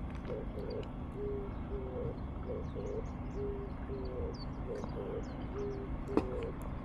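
A bird cooing over and over in low hooting notes, a flat note alternating with a wavering one, with small birds chirping faintly higher up. There is a single sharp click about six seconds in.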